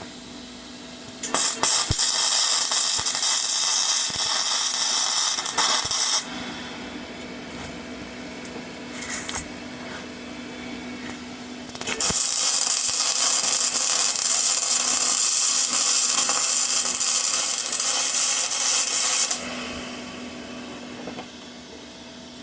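Flux-core arc welding with a Parkside PMSG 200 wire-feed welder: two runs of loud, steady hissing arc, one about five seconds long and a second about seven seconds long after a pause, over a steady low hum.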